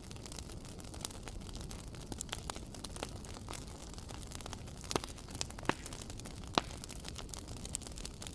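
Wood fire crackling in a fireplace: a dense run of small snaps and pops over a low rumble of flames, with a few sharper, louder pops in the second half.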